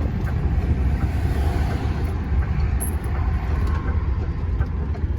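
DAF dump truck's diesel engine running with a steady low rumble.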